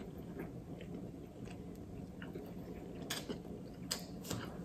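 Soft chewing of a mouthful of chicken Swiss pasta, with a few sharp clicks of a metal fork against the plate about three to four seconds in.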